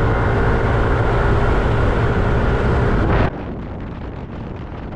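Wind buffeting the microphone over the steady running of a motorbike's engine while riding. About three seconds in, the sound drops abruptly to a quieter rush.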